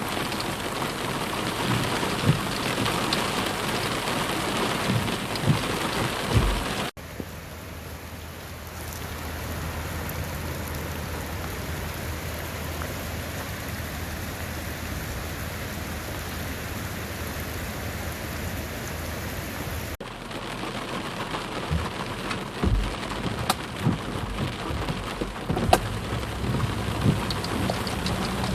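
Heavy rain falling, a dense hiss with many sharp drop impacts. It changes abruptly twice: a smoother, steadier rush with a low rumble in the middle stretch, then the spattering drops return.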